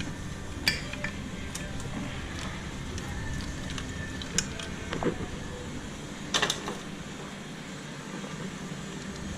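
Scattered sharp metallic clinks and knocks of tools and parts, four or five in all, over a low background that thins out in the second half.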